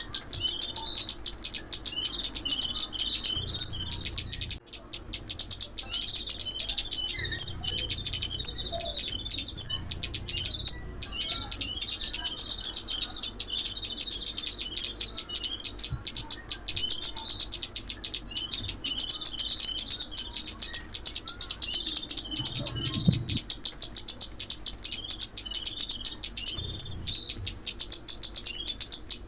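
Sunbird song played as a trapping lure: rapid, high-pitched twittering phrases running almost without a break, with short pauses about four and ten seconds in.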